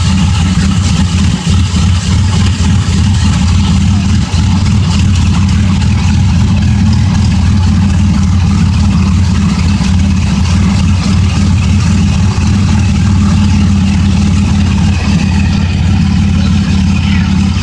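Pickup truck engine idling steadily, loud and close.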